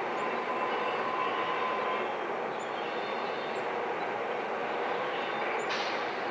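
Two EMD GP40-2 diesel locomotives, each with a turbocharged 16-cylinder engine, hauling a loaded welded rail train at a slow crawl. Engines and wheels make a steady, even rumble, with a faint thin tone in the first two seconds.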